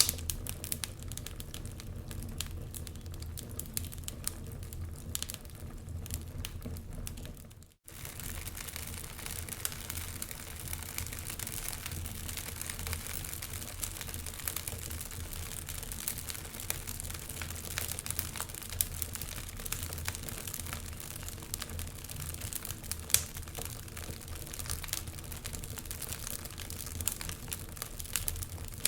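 Wood fire crackling in a fireplace: a continuous run of small pops and snaps over a low rumble, with one sharper pop past the middle. The sound cuts out for an instant about a quarter of the way in and comes back with more hiss.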